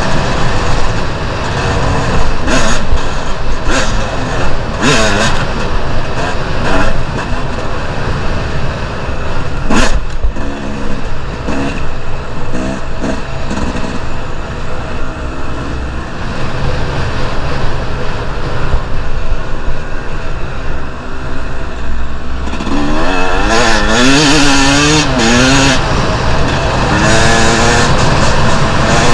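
Two-stroke enduro dirt bike engine running continuously on and off the throttle, its pitch wavering. A few sharp knocks come in the first third, and the engine revs up and down repeatedly near the end.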